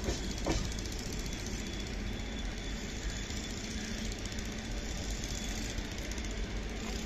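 Steady rumble of an express train's coaches rolling away along the rails, with a single sharp click about half a second in.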